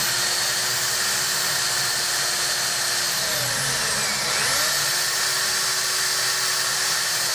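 Electric drill boring small glue holes into wood. The motor runs at speed, slows about four seconds in, spins back up, and winds down near the end.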